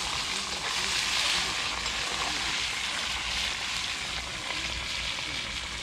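Fish cooking in a pan, frying with a steady sizzle.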